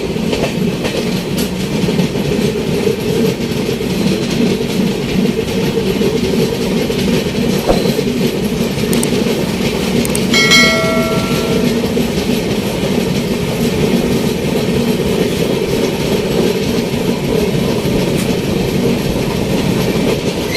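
Running noise of an Indian Railways passenger train heard from aboard: a steady rumble of wheels on rail with clickety-clack over the rail joints. About ten seconds in, a locomotive horn sounds once for about a second and a half.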